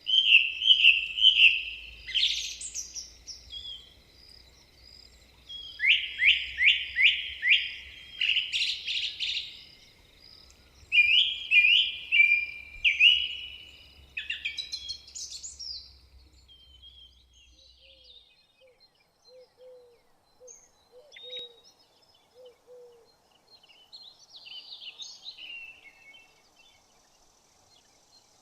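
Songbirds chirping in quick runs of short, downward-sweeping notes, loud in the first half, then fainter and more scattered for the rest.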